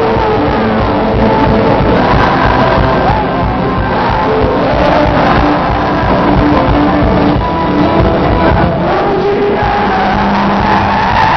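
Live worship music: a band playing loud rock-style music with singing.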